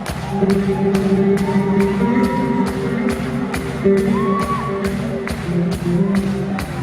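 Live band music with a steady drum beat under sustained instrumental lines.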